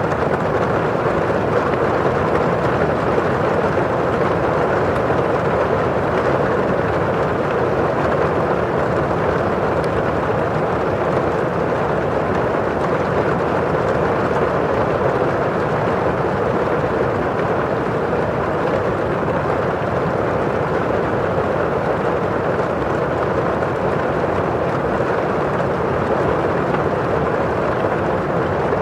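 Steady rain falling on a window pane: an even hiss of drops on the glass with the rustle of rain outside.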